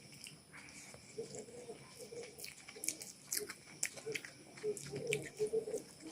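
Close-up chewing and wet mouth clicks of someone eating chicken biryani, with a pigeon cooing in short repeated low notes in the background.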